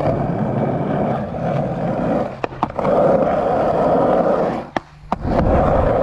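Skateboard wheels rolling over a skatepark's ramps and surface, with a few sharp clicks and knocks from the board along the way and a brief drop in the rolling sound about five seconds in.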